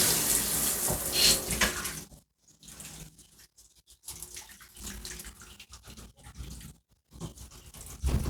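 Shower spray hissing through a newly fitted mineral ion filter shower head, shut off about two seconds in. After that, only faint scattered drips and small handling sounds.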